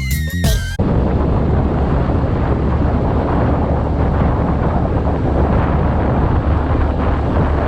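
Hip hop music cuts off about a second in, giving way to loud wind rushing over the microphone of a moving motorcycle, with a low engine and road rumble underneath.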